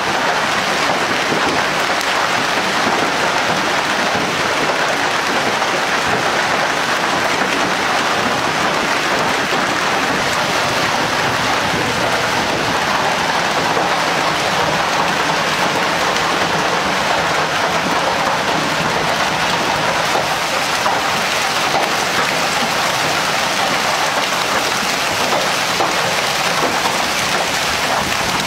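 Torrential rain mixed with hail pouring down in strong wind: a dense, steady hiss that neither rises nor falls.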